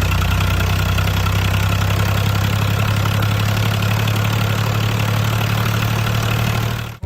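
An engine idling steadily with an even low running note, cutting off abruptly near the end.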